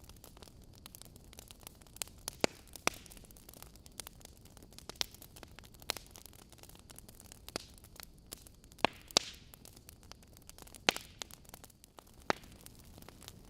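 Logs burning in a fireplace, crackling: irregular sharp pops and snaps over a soft steady hiss, the loudest pair about nine seconds in.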